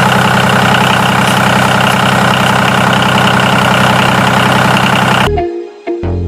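Engine idling steadily, a low chugging hum with a rough rattle over it. It starts abruptly and cuts off about five seconds in, and music follows.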